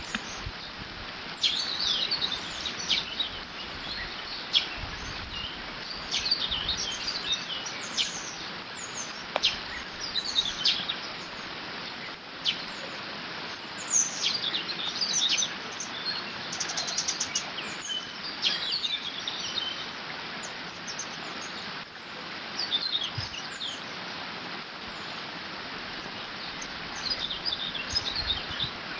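Water running steadily through a beaver dam, with songbirds singing short phrases over it every second or two and a fast trill about halfway through.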